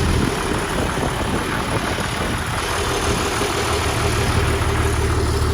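A truck engine idling steadily, with a deep hum that grows stronger about four seconds in.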